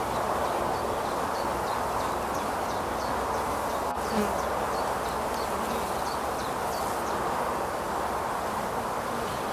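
Steady buzzing of a honeybee colony with the hive opened for inspection, with a brief knock about four seconds in.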